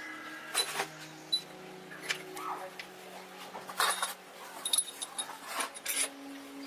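Irregular clinks and knocks, about seven in all, the loudest near the start, in the middle and near the end, over a faint steady hum.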